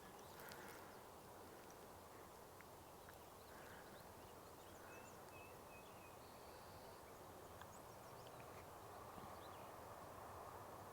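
Near silence: faint outdoor ambience with a few faint, distant bird chirps about halfway through.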